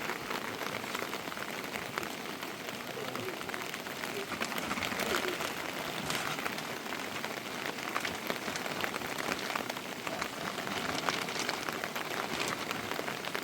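Steady rain falling, a dense hiss of many small drop impacts.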